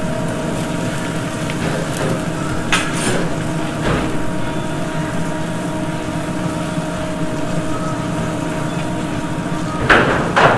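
Skin-on chicken breasts sizzling as they brown in a pan on a gas range, with a steady hum underneath. Metal tongs click against the pan a few times, mostly near the middle and end.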